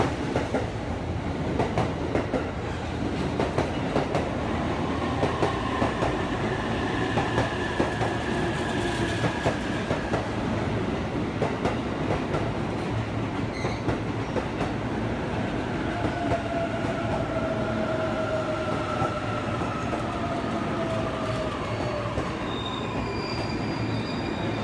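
E531 series electric train running slowly into the platform to stop, with rumbling and repeated clicks of wheels over the rails. Whines fall gradually in pitch as it slows.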